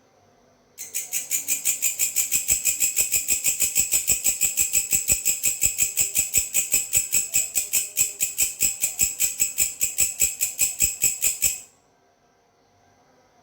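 A grasshopper calling: a fast, even train of dry, high-pitched pulses, about seven a second, that starts suddenly about a second in and breaks off near the end into a pause.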